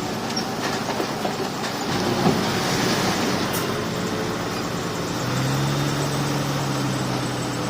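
Crawler bulldozer at work: diesel engine running with the clatter of its steel tracks, and a steady low engine note that comes up about five seconds in.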